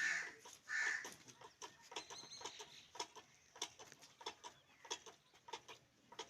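A crow cawing twice, then a run of short, irregular clicks, about three a second.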